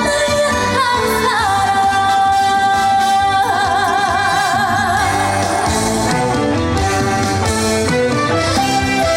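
A woman singing a Korean trot song live over a backing band. She holds a long note that breaks into a wide vibrato about three and a half seconds in.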